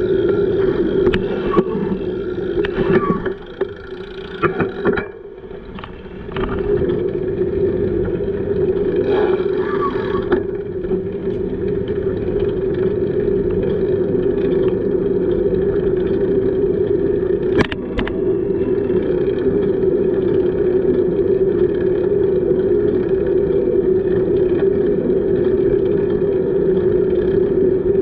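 Steady noise of a bicycle ride, with a constant hum and rushing air. It drops off briefly about four seconds in, and there is one sharp click about two-thirds of the way through.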